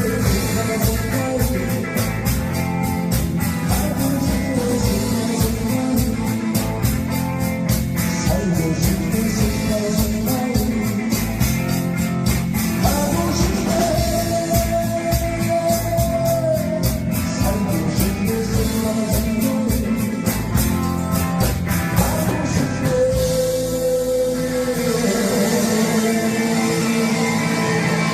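Live rock-style pop band music: a singer holding long sung notes over a drum kit and electric guitar accompaniment. The deep bass falls away near the end while a held note rings on.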